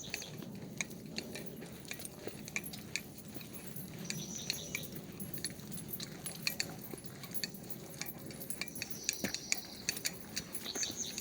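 Small metal pieces jingling in short, irregular clinks, the sound of a walking dog's collar tags and leash hardware.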